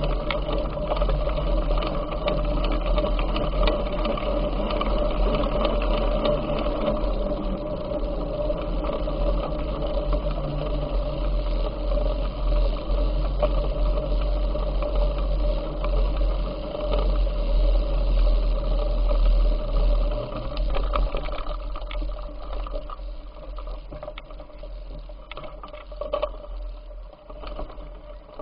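Riding noise from a bicycle: heavy wind rumble on the microphone over a steady mechanical whirr and rattle, which eases off after about twenty seconds.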